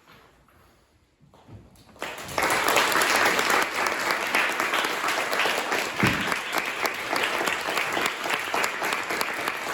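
Audience applause that breaks out suddenly about two seconds in, after a near-silent moment, and carries on at full strength.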